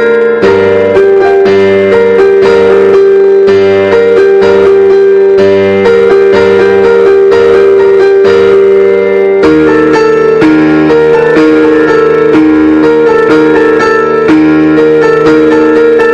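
Keyboard instrument played solo: a song from a medley, with repeated notes over held chords and a change of harmony a little over halfway through.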